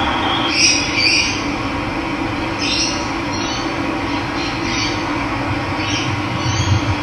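Steady rush of running water, with several short bird calls over it.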